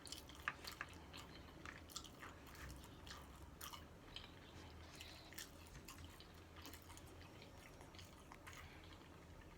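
Close-miked chewing of a taco: soft wet mouth clicks and smacks, more frequent in the first few seconds.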